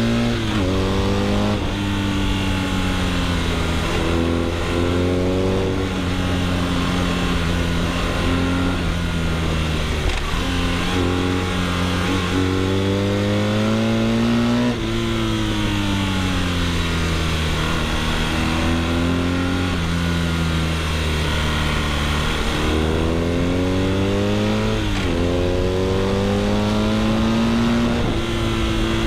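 BMW R nineT's 1170 cc boxer twin through an Akrapovič exhaust, pulling up through the gears: several rising runs in pitch, each broken by a sudden drop at an upshift. In the middle it slows with a long falling pitch, then accelerates again through two more shifts near the end.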